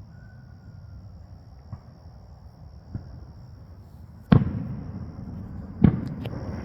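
Aerial fireworks shells bursting: two faint pops, then two loud booms about a second and a half apart, each trailing off in a rumbling echo.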